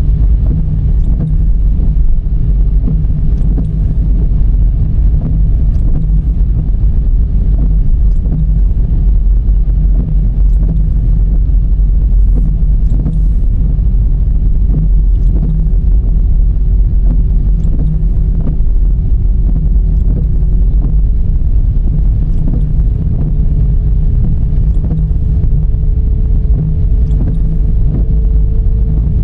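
Dodge Charger driving in the rain: a loud, steady low rumble of road and wind noise, with a faint thin tone that steps up slightly about twenty seconds in.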